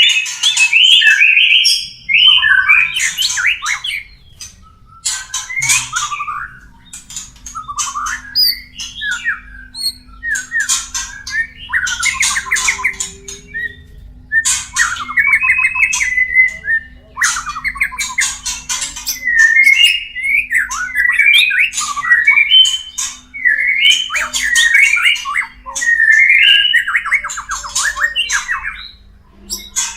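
White-rumped shamas giving mating calls: short, rapid phrases of harsh scratchy rasps mixed with warbled whistled notes, repeated almost without pause.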